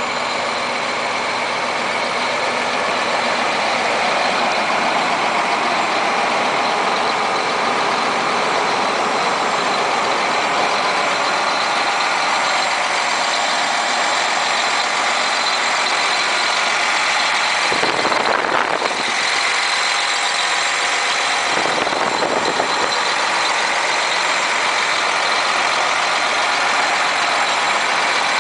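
John Deere 8235R tractor's diesel engine running steadily at idle, with a faint steady whine over the engine noise. Two brief swells come about two-thirds of the way through.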